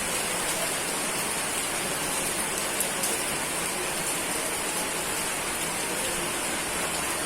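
Steady rain falling, an even hiss with a few sharp drop ticks standing out.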